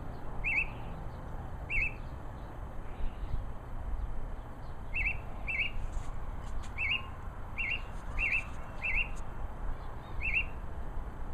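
A songbird gives a short, high chirp about nine times at uneven gaps, each call much like the last, over a low steady rumble.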